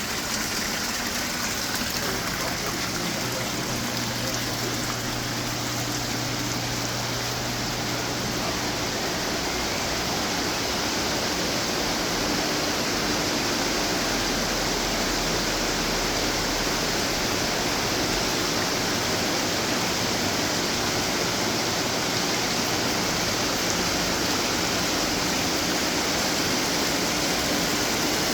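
Steady splashing of running water from garden fountains, an even wash of falling water. A low hum sits under it for the first several seconds.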